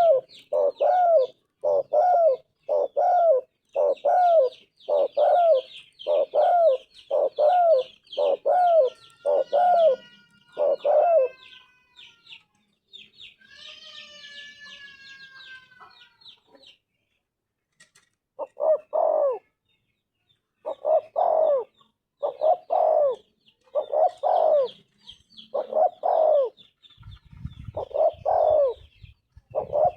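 Spotted dove cooing: a steady run of low, rounded coos, one every half-second or so. It breaks off about eleven seconds in while higher gliding whistles are heard, goes quiet briefly, then starts again. Faint high chirping from other birds runs underneath.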